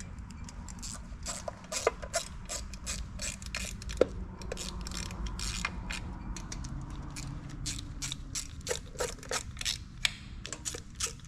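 Hand ratchet wrench being worked on a bolt, a run of irregular clicks at a few a second.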